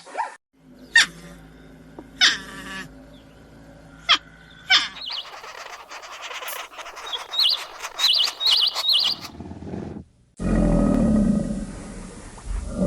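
Several different animal calls in turn: a few sharp, short cries, then high-pitched chirping, then a loud, low call starting about ten seconds in.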